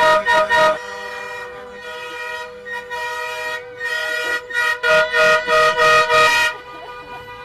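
Vehicle horn honking in quick short blasts: a cluster of toots right at the start, then a run of about six more from about four and a half seconds in. A fainter steady horn-like tone sounds underneath.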